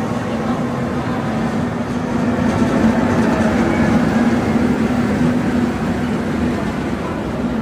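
A train running, with a steady drone and a low hum that grow a little louder midway.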